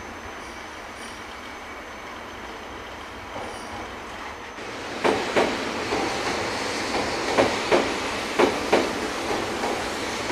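300 Series Shinkansen train rolling slowly, its wheels rumbling on the track. About five seconds in, the wheels start knocking over rail joints or points, in pairs about a third of a second apart, once a second or so, as each bogie's two axles cross.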